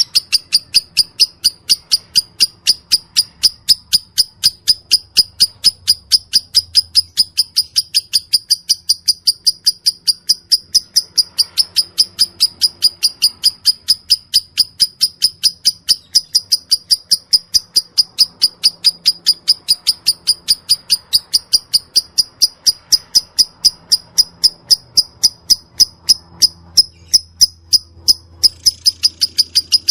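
Lovebird ngekek: a long, unbroken run of rapid high chirps, about five a second, at an even pace.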